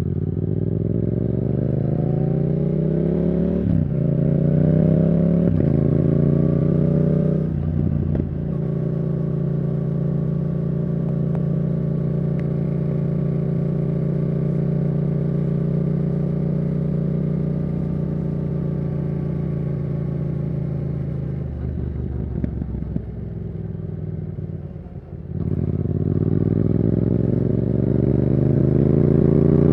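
Yamaha R7's 689 cc CP2 parallel-twin engine breathing through a Yoshimura R77 exhaust under way. It rises in pitch through the gears, with a break at each upshift around 4 and 8 seconds in, then holds a steady cruise. It eases off for a few seconds before rising sharply again near the end.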